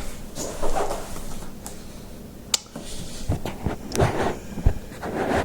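Handling noise of unpacking: cardboard and plastic packaging rustling and scraping, with scattered clicks and a few knocks, the loudest cluster about four seconds in.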